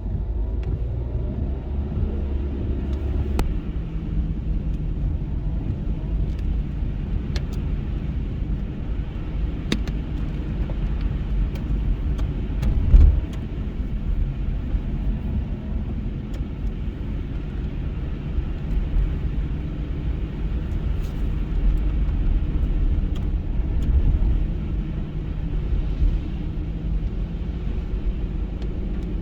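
Car driving on a snowy road: a steady low rumble of engine and tyres, with a louder bump about halfway through.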